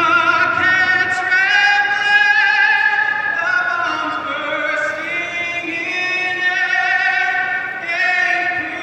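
A solo voice singing slow, long-held notes with a wavering vibrato.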